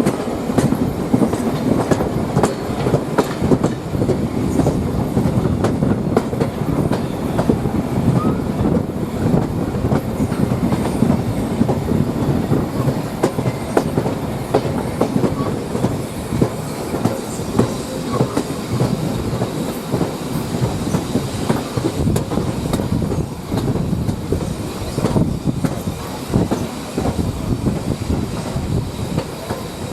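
Train carriage wheels rolling steadily along the track, with a continuous rumble and frequent clicks and knocks from the running gear over the rails.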